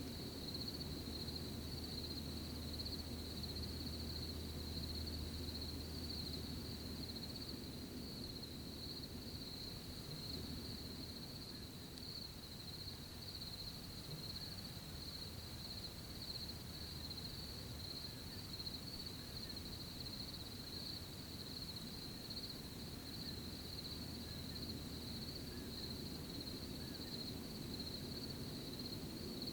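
Steady chorus of crickets trilling without a break, over a soft low rustle.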